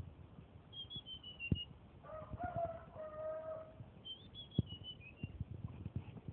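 Tledekan songbird singing short phrases of high whistled notes that step down in pitch, twice. Between them comes a lower drawn-out call of about a second and a half, with soft knocks scattered throughout.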